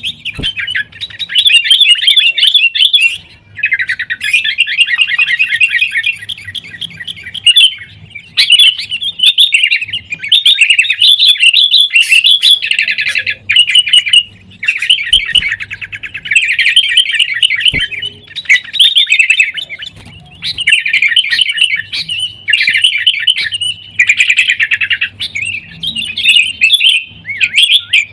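Sooty-headed bulbuls (kutilang) calling in rapid, chattering runs of notes, each run lasting a second or a few, with short breaks between them.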